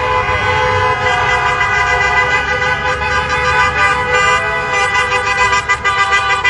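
Many vehicle horns honking at once, several held tones overlapping into a continuous blare, with quick repeated toots joining in during the second half.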